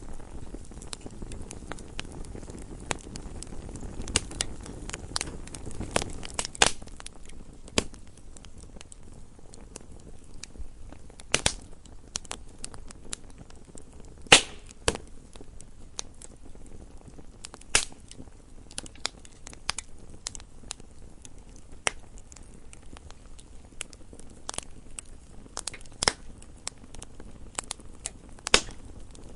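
Wood fire burning in a fireplace: irregular crackles and sharp pops of burning logs over a soft low rumble of flame.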